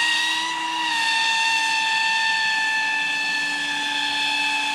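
Pro Boat Aerotrooper RC airboat's electric motor and caged air propeller running hard: a loud, steady high-pitched whine, easing slightly in pitch about a second in and then holding.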